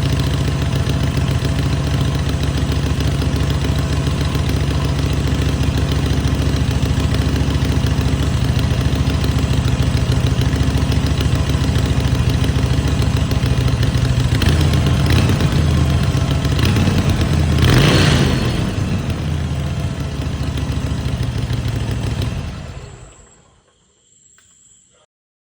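Harley-Davidson V-twin engine idling steadily after a cold start. Its note changes about fifteen seconds in with a brief louder swell, then it runs on and is switched off, dying away with a couple of seconds left.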